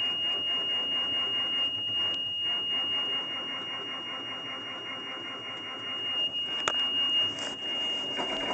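Diesel engine of a 2002 Oshkosh S-Series front-discharge concrete mixer running just after a cold start, with an even pulsing for the first couple of seconds. A steady high-pitched warning tone sounds throughout.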